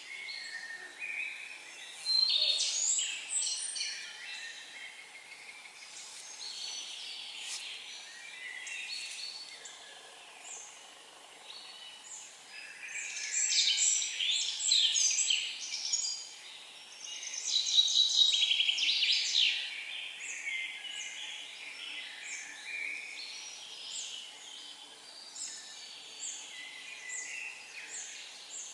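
Several songbirds singing, a mix of chirps and trills, with louder stretches of song about two seconds in, in the middle and just after; short repeated notes carry on toward the end.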